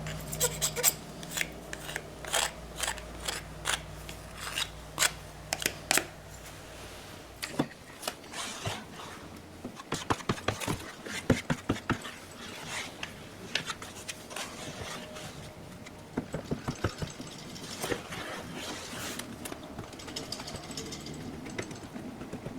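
Hand-tool work: irregular sharp clicks, taps and light scrapes, with a low steady machine hum that stops about seven seconds in.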